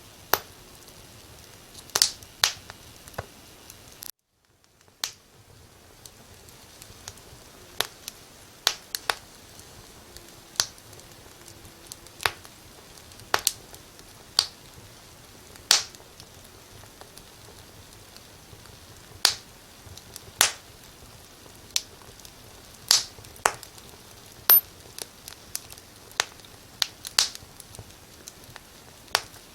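Wood fire crackling: irregular sharp pops and snaps, one to a few a second, over a faint steady hiss. The sound drops out abruptly for about a second around four seconds in, then fades back.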